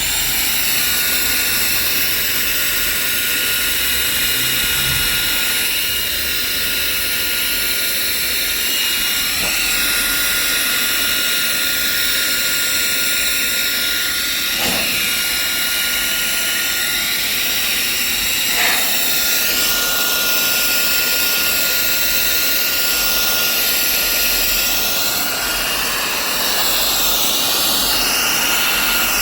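REIKIYA HV-C11 cordless mini vacuum running in air-blower mode, switched on at the start: a loud, steady rush of air over a high, steady motor whine.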